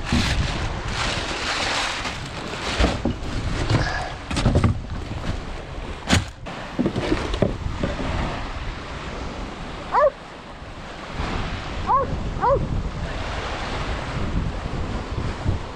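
Seawater sloshing and splashing around a swamped kayak, with wind buffeting the microphone and a few knocks. Three short squeaky chirps come near the end.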